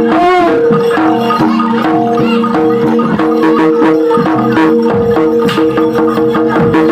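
Javanese gamelan music: struck bronze gong-chime notes repeating in a steady pattern, with frequent drum strokes and a brief wavering tone near the start.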